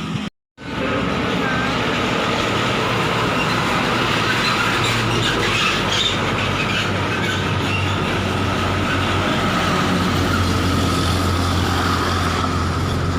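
Steady heavy-vehicle noise: a low engine drone under a constant rumble, with a thin high steady tone above it. It starts just after a brief dropout to silence.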